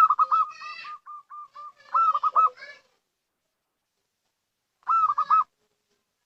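Zebra dove cooing: a fast, even run of short coo notes, then a louder group of about four rolling coos around two seconds in and another group of four near the end.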